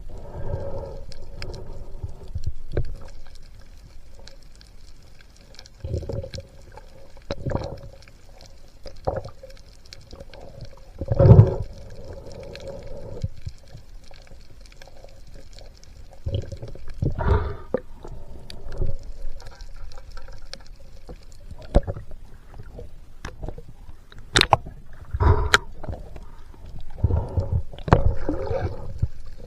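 Muffled underwater sound through a camera housing: irregular water surges and gurgles, with a few sharp clicks.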